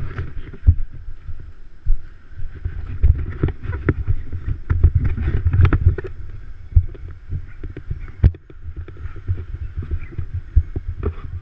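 Motocross bikes racing round the track, their engines heard as an uneven, continuous drone, with heavy rumble and sharp knocks from wind buffeting the microphone.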